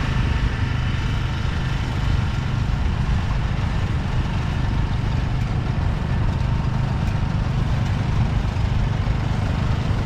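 Tractor engines running slowly at low idle, a steady low rumble.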